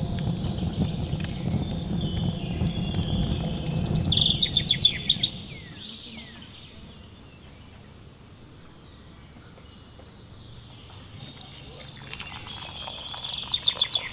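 A songbird sings a short phrase of rapid high chirps twice, about nine seconds apart. For the first five seconds a low rushing noise runs under it and then stops.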